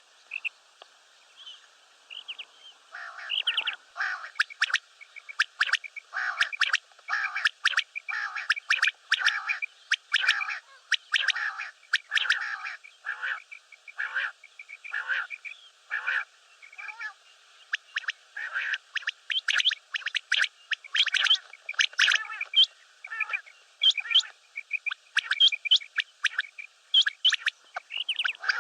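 Common quail calling: a steady run of short, repeated calls, several a second, sparse in the first few seconds and then nearly unbroken.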